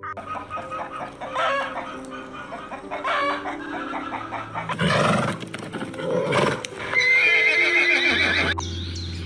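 A series of loud animal calls, one after another, over steady background tones, changing about a second before the end to high chirps.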